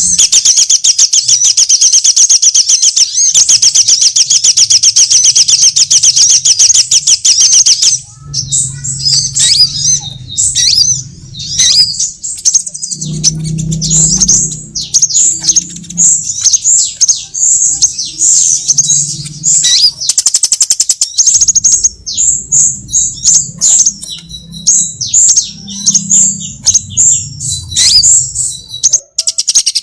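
Sunbird calls from a bird-lure recording: a very fast, continuous high trill for about the first eight seconds, then a long run of quick, high chirps and twitters.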